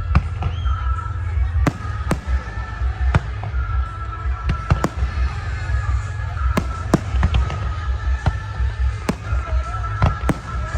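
Fireworks going off: an irregular run of sharp bangs, several a second at times, over a steady low rumble.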